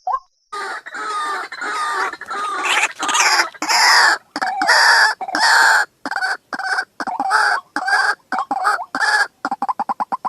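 White-breasted waterhen calling: a loud run of harsh, croaking notes starts about half a second in. It breaks into shorter, quicker clucking notes near the end.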